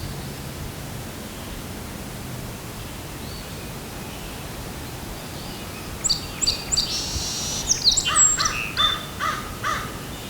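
Outdoor morning ambience with a steady hiss, then, about six seconds in, birds start calling: a few quick high chirps and a fast trill, followed by a run of harsher repeated calls about a third of a second apart.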